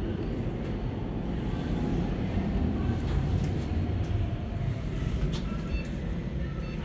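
Orona machine-room-less elevator running, a loud steady low rumble from the moving car, with a few light clicks near the end.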